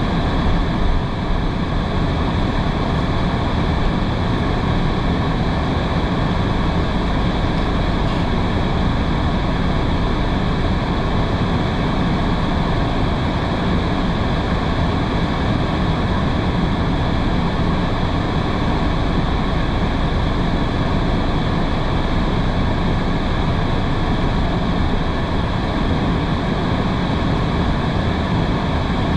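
Steady road noise inside a moving car driving in heavy rain: tyres hissing on the wet road, with a low rumble from the cabin.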